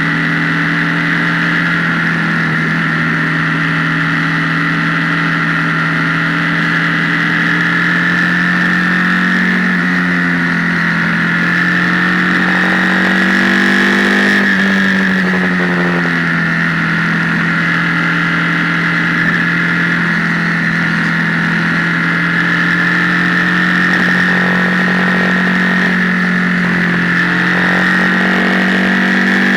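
Motorcycle engine heard from an onboard camera, running steadily at road speed, with the revs climbing for a couple of seconds about twelve seconds in and then dropping sharply, as at a gear change or closing the throttle. The sound is distorted by the camera's microphone, over a steady high hiss.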